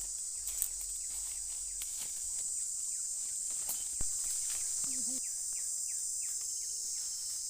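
Steady high-pitched insect chorus, with scattered clicks and a short run of quick falling chirps a little past the middle.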